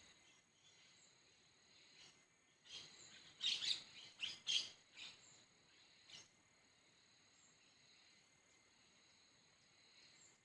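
A wild bird calling in a quick series of sharp, high notes, loudest around four seconds in, over a faint, steady, high-pitched insect drone.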